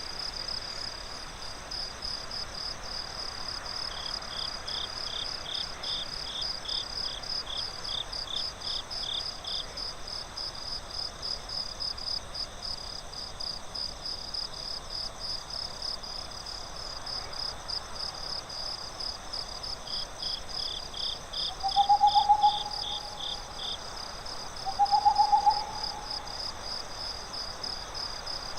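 Night forest ambience: crickets chirping steadily in rapid pulses, with a second, lower-pitched cricket chirping on and off. An owl hoots twice near the end, a short call each time, the loudest sound here.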